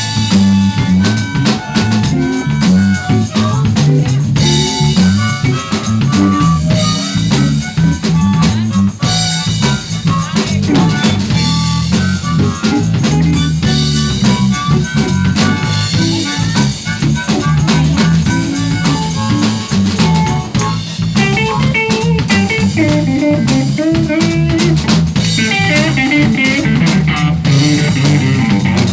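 Live band playing an instrumental stretch in a blues style: drum kit and guitar over a steady groove.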